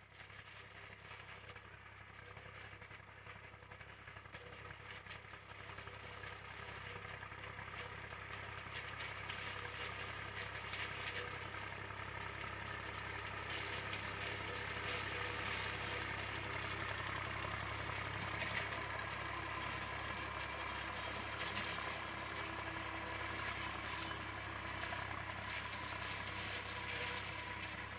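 IMT 539 tractor's diesel engine running with the SIP 135 Roto forage harvester at work in corn, growing louder over the first half, then steady.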